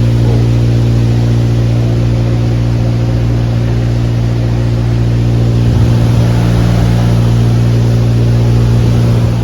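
HVAC machinery running with a loud, steady, even hum.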